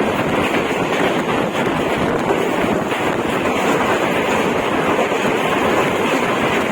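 An express passenger train passing at speed: a steady, loud rushing of wheels and coaches on the rails, with wind buffeting the microphone.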